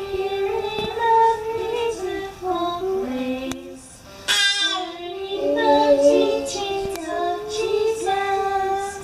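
Young children and a woman singing a slow song together, the melody held in long notes with brief breaks between phrases.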